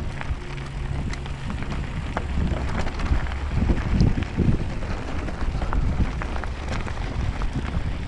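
Wind buffeting a helmet-mounted microphone as a low, steady rumble, with scattered clicks and knocks from bike and gear handling. The rumble swells about four seconds in.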